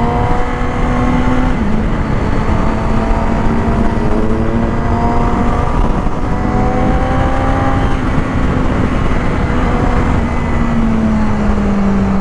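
Motorcycle engine running under way, its note slowly climbing and then dropping back a few times, under a loud steady rush of wind on a helmet-mounted camera.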